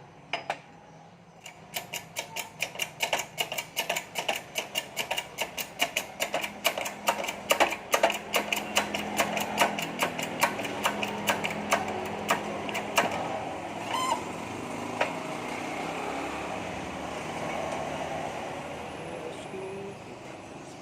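Rapid, evenly spaced metallic clicks, about three a second, as the new connecting rod and crankpin are pressed into a Vario 125 crankshaft. The clicking stops abruptly about two-thirds of the way through, leaving a steady low noise.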